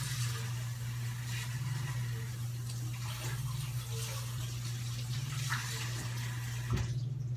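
Kitchen tap running water into the sink as produce is washed, with a few light knocks under the stream; it is shut off near the end with a short knock.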